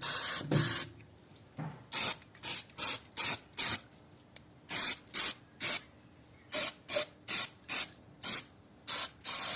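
Aerosol spray can fired in a rapid series of short hissing bursts, about two a second, with a brief pause about four seconds in.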